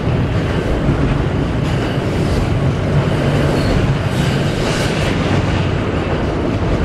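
Freight train of intermodal container cars rolling along the track, a steady rumble of wheels on rail with a low hum.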